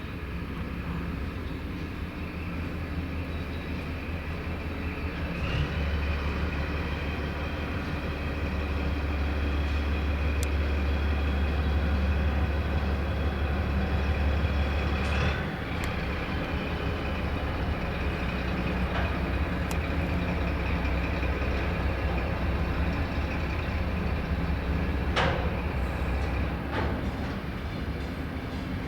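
A train running at the station: a steady low hum with a fainter, higher whine. It grows louder about six seconds in and eases back near the fifteen-second mark, with a few brief clicks.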